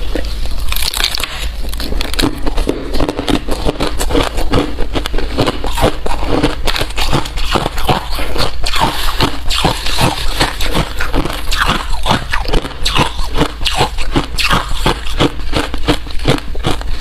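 Hard ice being bitten and chewed close to the microphone: rapid, loud crunching and cracking, several crunches a second without pause.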